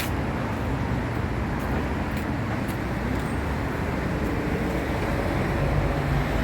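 Steady background traffic noise: a low rumble with hiss above it and a few faint ticks.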